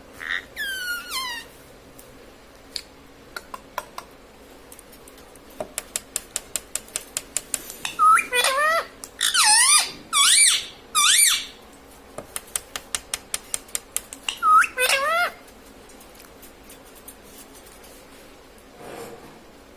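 Pet ring-necked parakeet giving loud, sharp squawking calls in several short bursts, each call sweeping steeply in pitch. Between the bursts come runs of quick clicks, about five or six a second.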